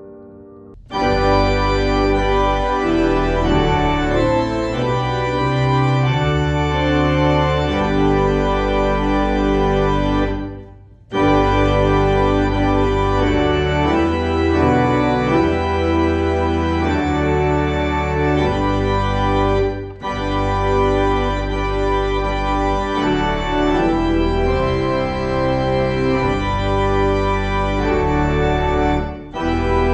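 Organ playing sustained chords over a slowly moving bass line, starting about a second in, with short breaks between phrases.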